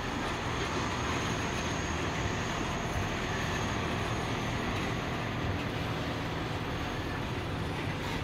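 Container train wagons rolling past: a steady rumble of steel wheels on the rails.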